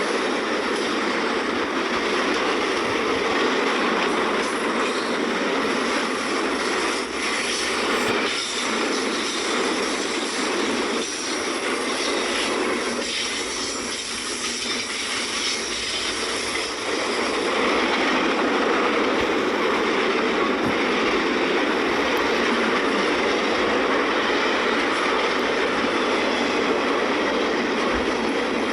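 Norfolk Southern intermodal freight train rolling past: a steady rush of steel wheels on rail, a little louder in the second half.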